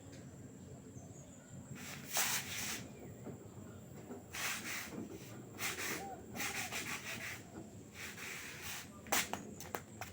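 LG direct-drive washing machine in its wash cycle, the drum turning the laundry so that wet clothes swish and slosh in irregular bursts of about a second over a low rumble, with a few short sharp clicks near the end.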